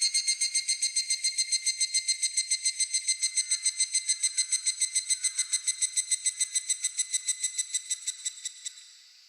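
Higurashi (evening cicada) calling: a rapid, even pulsing of clear ringing notes, about seven a second, that thins and slows near the end and stops shortly before the end, over faint cricket chirring.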